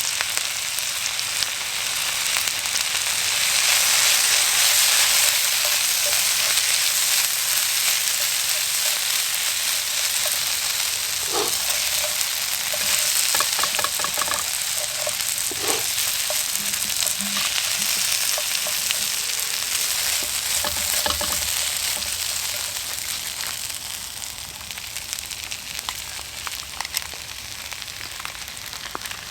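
A stir-fry sizzling hard in a hot pan and being stirred, with a few short clinks in the middle; the sizzle eases off a little near the end.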